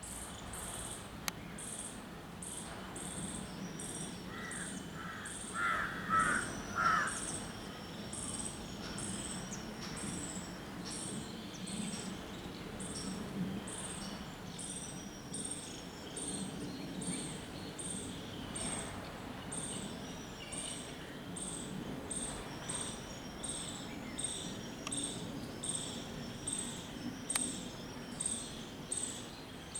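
Insect chirping in a steady rhythm of short, very high-pitched pulses, about one and a half a second, with a few short, louder bird notes about five to seven seconds in.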